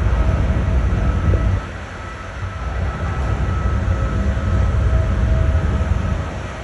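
Loud low mechanical rumble with a faint steady hum above it, easing about one and a half seconds in and building again.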